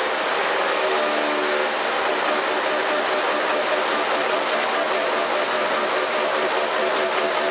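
Three-spindle log-rounding machine running, its cutter heads and motors making a steady, dense mechanical noise.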